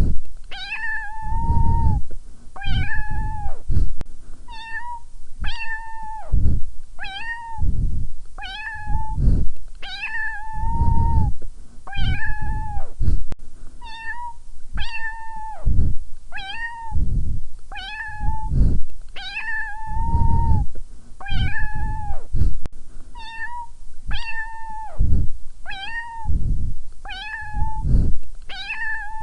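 A domestic cat meowing over and over, about one meow every second and a half, the calls nearly identical in shape and pitch.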